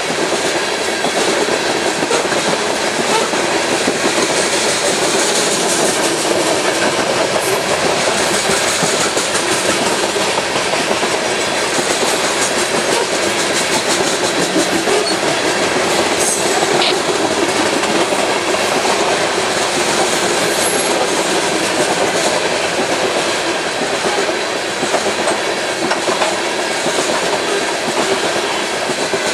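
Loaded coal cars of a BNSF coal train rolling past: a steady rumble of steel wheels on rail, with clicks as the wheels cross the rail joints.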